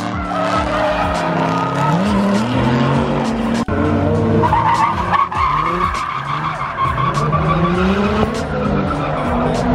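Drift cars sliding: engines revving up and down with tyres squealing.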